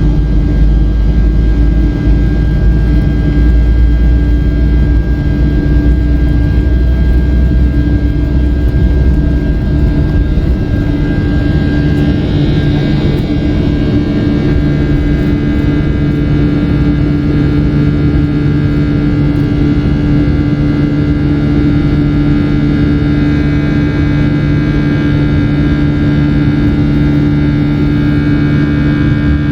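Rolls-Royce RB211 turbofans of a Boeing 757-200 running at takeoff power, heard inside the cabin: a steady drone with several held tones, and a deep rumble that fades about ten seconds in.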